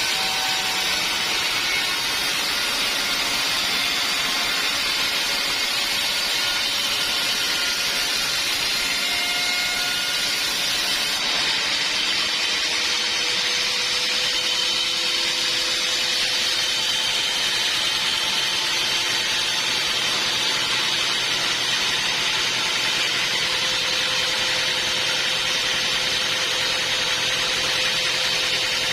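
Sawmill bandsaw running, a steady hiss with faint whining tones that drift slowly in pitch.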